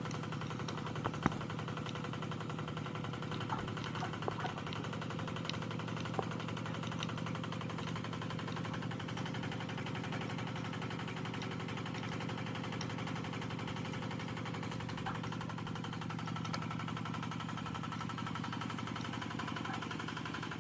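Miniature generator set running steadily with an even, rapid engine-like beat, with a few faint clicks.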